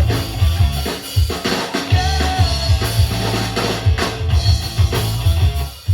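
Rock band playing a short instrumental passage between sung lines, led by a driving drum kit with bass drum and snare hits.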